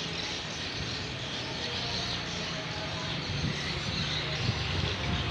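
Strong storm wind blowing steadily, with road traffic running underneath.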